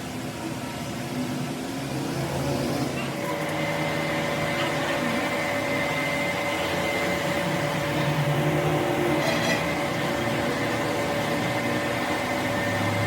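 Workshop machinery running steadily with a held whine, over a background of voices.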